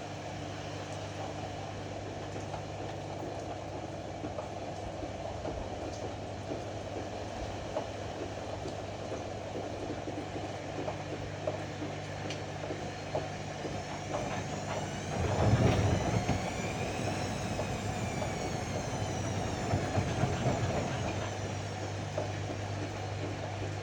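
Ariston AML125 washer-dryer running with a steady low hum. A little past the middle the sound swells, and a whine rises over a few seconds and then falls as the drum motor speeds up and slows down again.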